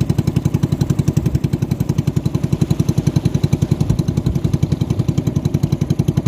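Racing boat engine running steadily with a fast, even chugging beat.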